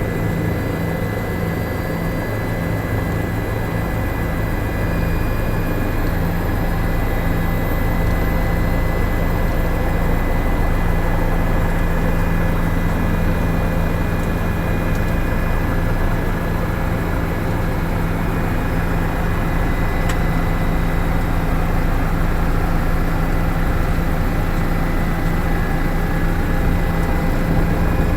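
Helicopter engine and rotor running steadily in flight, heard from inside the cabin as a loud, even drone with a constant low hum.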